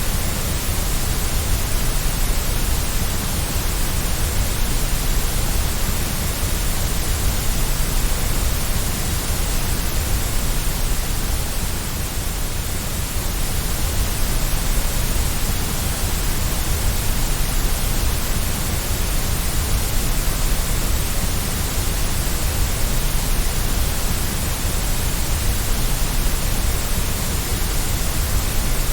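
Steady white noise: an even hiss over a low rumble, unchanging throughout.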